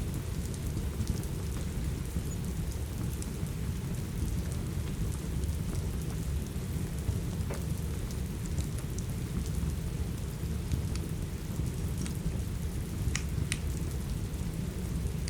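Steady rain with a deep, constant rumble, over a wood fire in a fireplace giving off sparse crackles and pops. A couple of sharper pops come near the end.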